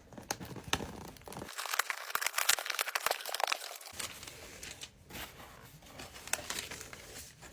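Packaging crinkling and tearing as a gift box is opened, the crackling densest and loudest for a couple of seconds around the middle.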